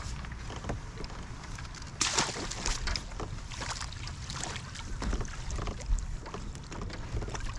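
Handling noise in a kayak: irregular knocks and rustles against the hull with water sloshing, the loudest a burst about two seconds in.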